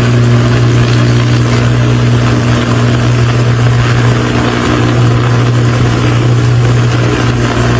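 Loud, steady electrical buzz with a hiss over it: an ice-laden power line arcing, the sign of a short on the line. The buzz cuts in and out abruptly.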